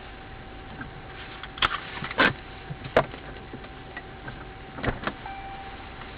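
A handful of short, sharp knocks, five in all, the loudest about two seconds in, over a steady hum with a faint constant tone.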